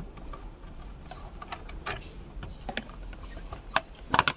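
Scattered light clicks and knocks of a plastic engine cover being unclipped and lifted off by hand, with a louder cluster of sharp knocks near the end.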